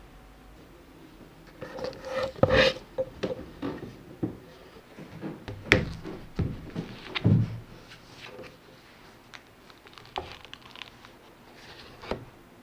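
Handling noises in a small room: a scattered run of knocks, clicks and rubbing, busiest in the first half, with a single knock near the end.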